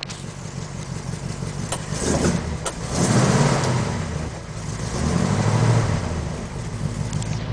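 1967 Ford F100's 352 cubic-inch V8 running at idle and revved twice, about three seconds in and again about five seconds in, settling back to idle each time.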